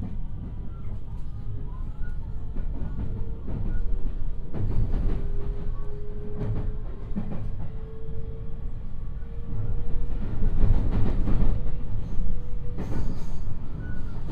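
JR West 223 series electric train heard from inside the car while running: a low rumble of wheels on rail with scattered clatter and a steady whine that stops near the end. The rumble grows louder about two-thirds of the way through.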